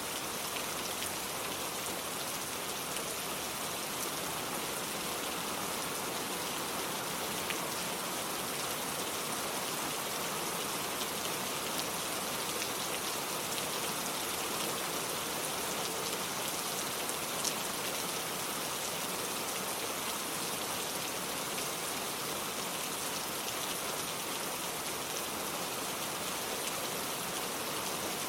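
Steady rain falling on a wooden porch and a lake surface, an even hiss with scattered individual drop ticks.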